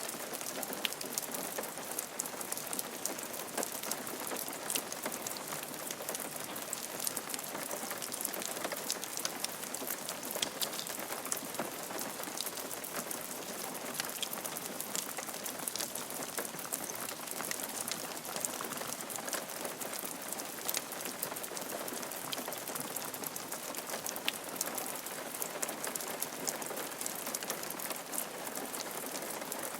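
Steady rain falling on a roof, a constant hiss with many distinct drops ticking.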